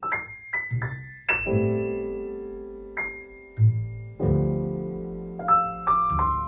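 Background music: a gentle piano piece playing single notes and chords that ring out, with a low bass note about a second and a half in and again near four seconds.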